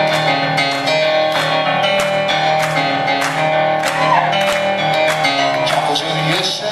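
Live rock band playing an instrumental passage, guitar strumming over held notes to a steady beat.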